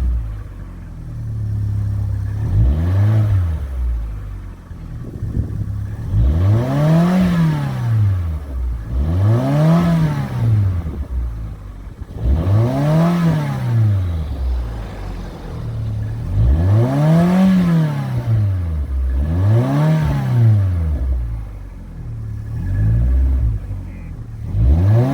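Vauxhall Corsa D engine through an aftermarket exhaust, revved repeatedly from idle. Each rev climbs and falls back over about two seconds, about seven of them spaced roughly three seconds apart, with the engine idling between.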